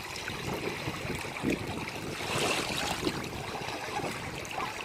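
Ocean waves washing on the shore, a steady rush that swells louder about halfway through as a wave comes in.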